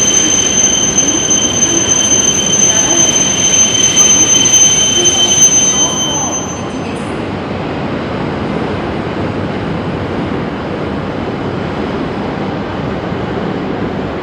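Shinkansen train running along the platform track with a steady high-pitched wheel squeal that stops about six and a half seconds in, leaving the train's steady rumble and rush.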